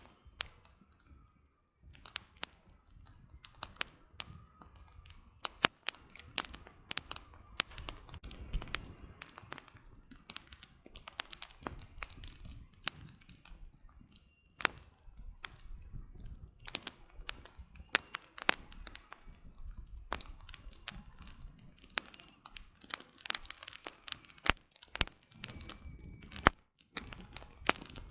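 Campfire of burning firewood crackling: dense, irregular sharp pops and snaps over a faint low rumble, with brief lulls about two seconds in and near the end.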